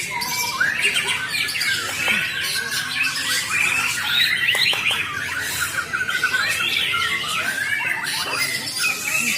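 Bornean white-rumped shama (murai batu) singing a fast, varied, unbroken string of chirps, trills and whistled notes.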